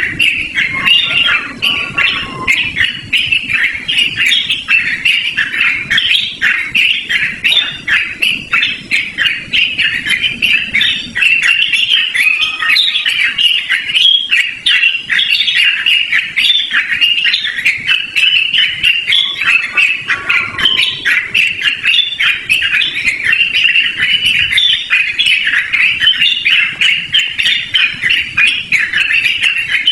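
Sooty-headed bulbul (trucukan) singing a long, unbroken run of quick, chattering notes.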